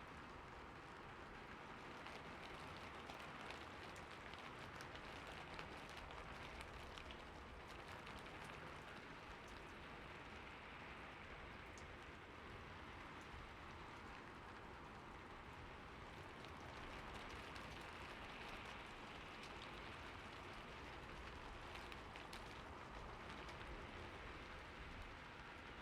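Soft, steady rain, an even hiss with many faint drop ticks through it.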